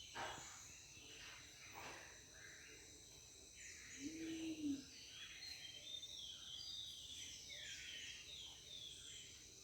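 Rainforest ambience: a steady, high insect hum with a bird calling a quick series of short falling notes in the second half. A single low hooting note sounds about four seconds in.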